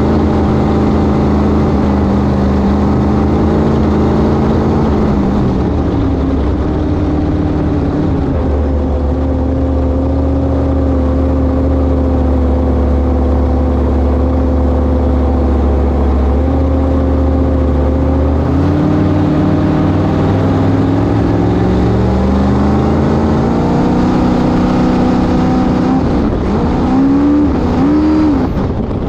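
1971 Sanger flat-bottom V-drive boat's inboard engine running under way. The throttle comes off about five seconds in and holds steady low, then opens up again from around eighteen seconds. Two quick short revs follow near the end.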